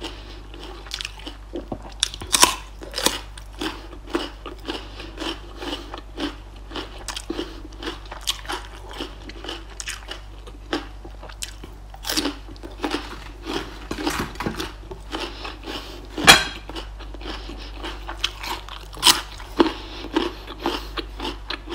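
Close-up crunching and chewing of raw vegetables: a raw red radish bitten and chewed with irregular crisp crunches, the loudest about two-thirds of the way in, and a raw carrot eaten near the end.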